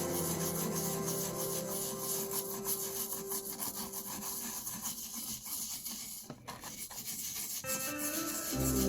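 Rapid back-and-forth rubbing strokes on the old metal belt buckle as it is cleaned. Background music drops out in the middle and comes back loudly near the end.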